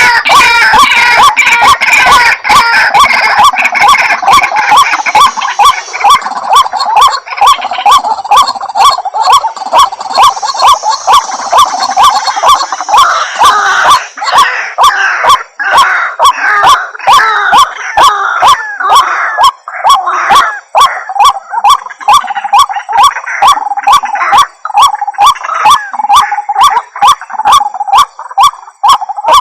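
White-breasted waterhen calling continuously, a loud repeated call with about two notes a second.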